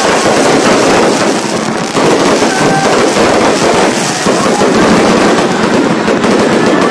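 Fireworks going off in a dense, continuous crackle of many small pops.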